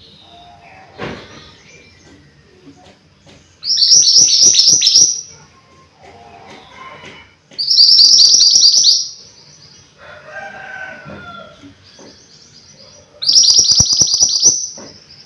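Mantenan gunung songbird singing in three loud bursts, each a fast run of high, quickly repeated notes lasting about a second and a half, with quieter chirps between the bursts.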